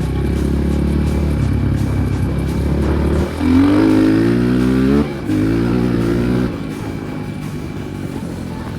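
Enduro motorcycle engine under way, revving up with a rising pitch about three seconds in, a short dip around five seconds as the gear changes, then easing off a little after six seconds.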